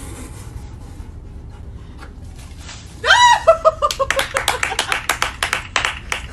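A person laughing, a burst that steps down in pitch, about three seconds in, followed by rapid sharp claps or slaps, about five or six a second.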